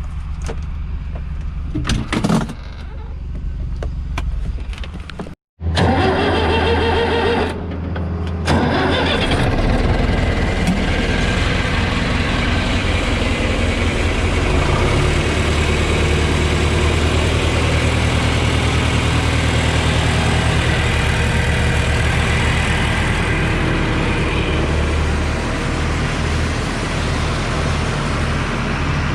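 Large farm-machine engine running steadily. The sound drops out abruptly about five and a half seconds in, and after that the engine is louder and continues steadily.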